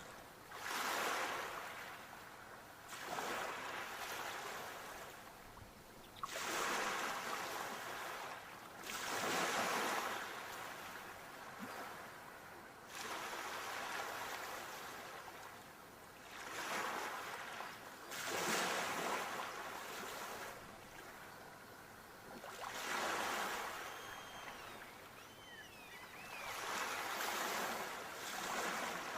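Sea waves breaking on the shore, each one swelling up and washing back out, about one every three to four seconds.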